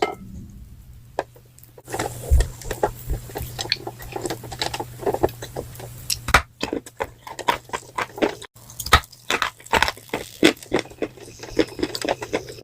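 Chalk pieces coated in wet grey clay paste being crunched up close: a dense, irregular run of sharp crackles and crunches that starts about two seconds in, with a brief gap of silence past the middle.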